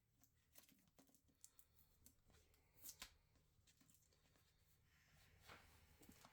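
Near silence: faint room tone with scattered small clicks and rustles, two sharper ticks about three seconds in.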